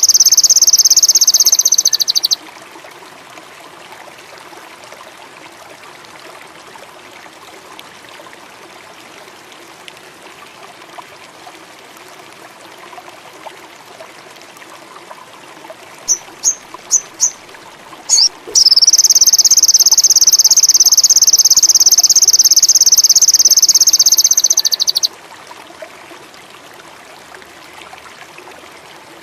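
Sogon (crimson sunbird) song: a loud, high, fast trill that cuts off about two seconds in, then a few short chirps and a second long trill of about six seconds. Behind it, a steady low trickle of running water.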